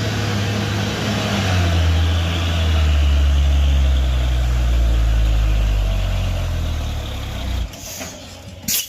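Heavy truck's diesel engine running steadily under load, which cuts off abruptly a little before the end, followed by a couple of short sharp high squeaks.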